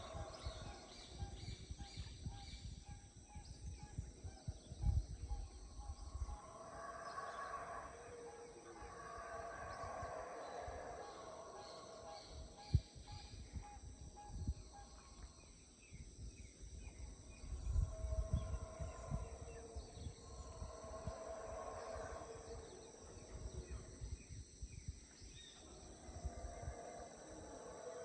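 Wild animal calls that swell and fade in repeated bouts a few seconds long, over a low uneven rumble of wind or handling noise with a few sharp knocks.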